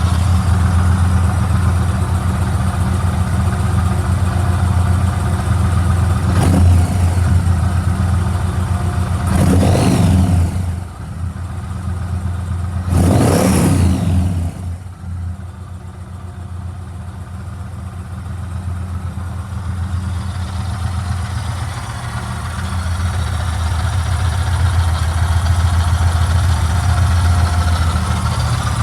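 Yamaha MT-01's large air-cooled V-twin idling with a lumpy beat, blipped briefly about six seconds in, then revved up and back down twice around the middle. After the revs the idle runs quieter for a while before settling back to its earlier level.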